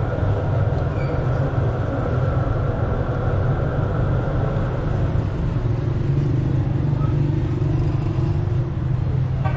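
A running engine's steady low rumble.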